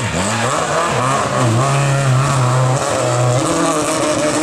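Historic rally car's engine at full effort on a special stage. The revs dip and climb again right at the start, hold steady for a couple of seconds, then begin to climb once more near the end.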